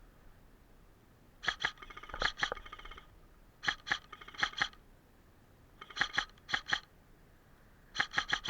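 Airsoft guns firing in short bursts of sharp clicking shots with a ringing whine, four volleys about two seconds apart.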